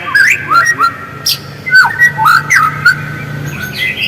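White-rumped shama (murai batu) singing: a run of clear whistled notes and quick downward-sliding slurs, with a few sharp clicking notes mixed in.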